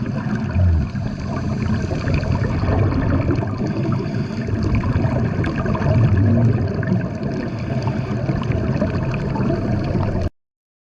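Rushing, gurgling water noise with a low rumble and crackles, which cuts off abruptly near the end.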